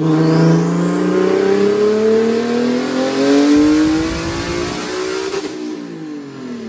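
Nissan 370Z's 3.7-litre V6 with a single turbo doing a full-throttle dyno pull: revs climb steadily for about five and a half seconds, then drop as it comes off the throttle.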